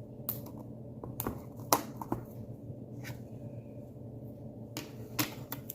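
Scattered light clicks and knocks of a spoon and ingredient containers being handled while baking ingredients are measured into a mug, the sharpest knocks about a second and a half in and near the end.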